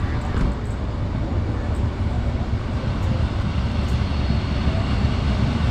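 Steam locomotive 01 519 and its train rolling in tender-first, a steady low rumble of wheels on track as the train slows.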